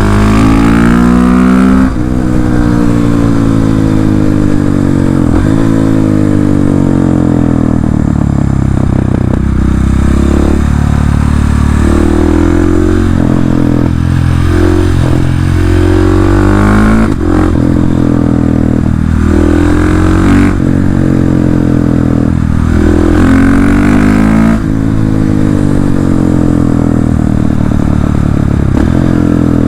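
KTM 690 SMC R's single-cylinder engine, breathing through an Arrow exhaust with the dB-eater removed, revving hard. Its pitch climbs repeatedly and drops back at each gear change as the bike accelerates, eases off and pulls again.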